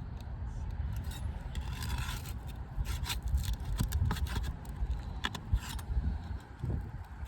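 Flat bar scraping and prying under roof shingles, a run of short scrapes and clicks as a shingle is lifted to find its nails, over a steady low rumble.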